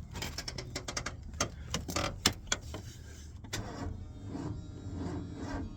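1989 Ford F150's 302 V8 being cranked by the starter without catching, with scattered clicks and knocks. The distributor is out of time, so the engine will not fire.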